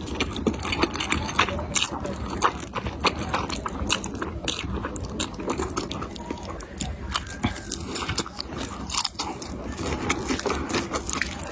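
Close-miked eating sounds: a person chewing and biting food, with many small, irregular wet mouth clicks.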